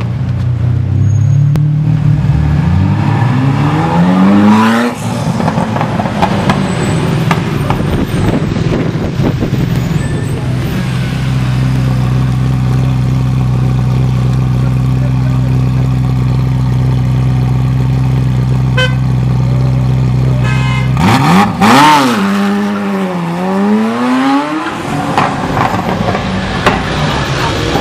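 Ferrari F40's twin-turbo V8 revving up in a rising climb, then running at a steady pitch for several seconds, then blipped sharply up and down a couple of times near the end, with short sharp pops.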